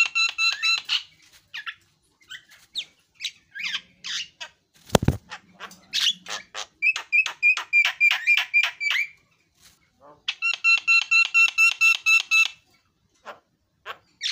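Javan myna (jalak kebo) singing: runs of rapid, evenly repeated buzzy notes, about seven a second, broken by scattered single whistles and squawks. A sharp knock about five seconds in.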